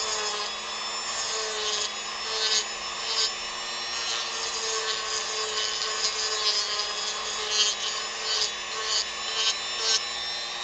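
Dremel rotary tool running at high speed, its bit grinding into a wooden carving, with a steady high whine and rougher rasping bursts every second or so as it bites into the wood.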